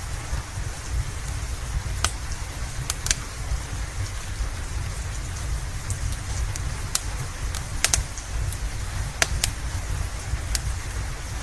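Steady rain with a deep low rumble, over a wood fire crackling with sharp, irregular pops.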